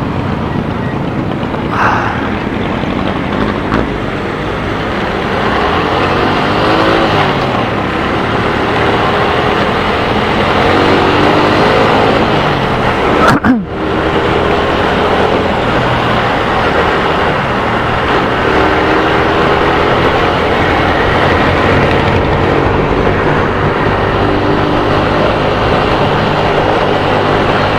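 Motorcycle engine running under way, its pitch rising with each acceleration and settling several times, with a brief drop about halfway through, over a steady rush of wind and road noise on the helmet-mounted mic.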